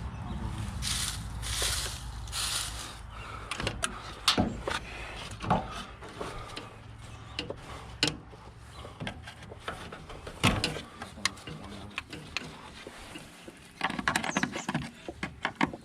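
Irregular clicks, knocks and rattles of hand tools working loose plastic clips, screws and shroud parts on a van's front end, with a few short hissing scrapes about one to three seconds in.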